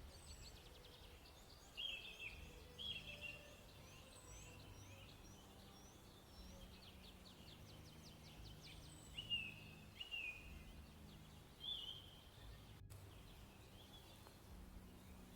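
Wild birds calling over faint outdoor background: short chirping calls recur every second or so, with a quick run of high, thin chirps in the first half. The sound drops out for a split second near the end.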